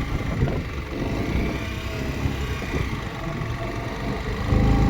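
Motorcycle engine running on the move, a steady low rumble with road noise, getting louder near the end.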